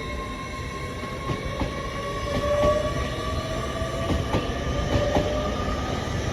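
LNER Class 801 Azuma train moving through the station: a steady whine that rises slightly in pitch, with occasional clicks from the wheels on the track, growing gradually louder.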